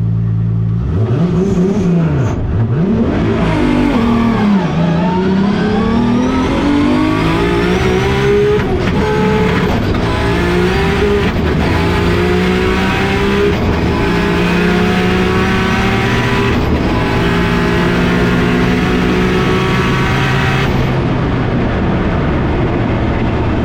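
Turbocharged 3.0-litre 2JZ-GTE inline-six of a 1300 hp Hilux land-speed truck under hard acceleration. A couple of revs rise and fall first, then a long climb in pitch is broken by about four short breaks at the gear changes, where the sequential gearbox is shifted by lifting off the throttle. Near the end the engine comes off full throttle and the high end drops away.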